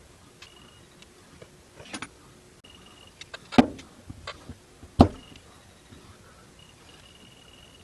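A few light clicks and taps, then two sharp knocks of hard objects about a second and a half apart, near the middle.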